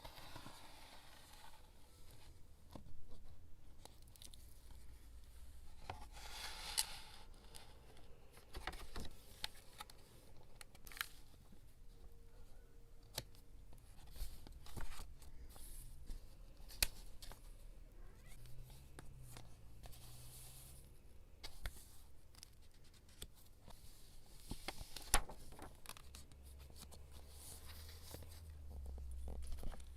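Close-up scrapbooking sounds: paper and stickers handled, torn and cut, with scattered light taps and clicks and a few short rustling swishes.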